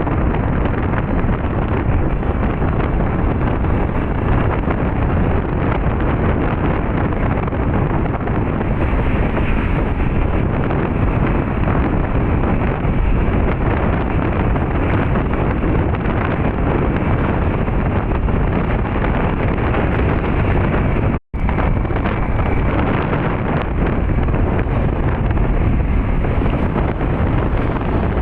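Wind buffeting the microphone over a steady vehicle rumble, as heard while travelling along a road. The sound drops out sharply for a split second about three-quarters of the way through.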